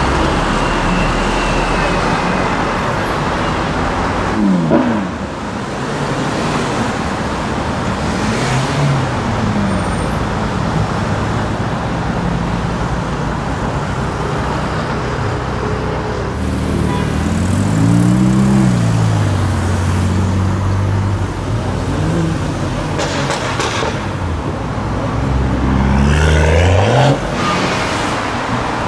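Busy city road traffic with supercar engines revving and accelerating past. One engine note sweeps down early on, a stronger one rises and falls in the middle, and a last one climbs and cuts off sharply near the end.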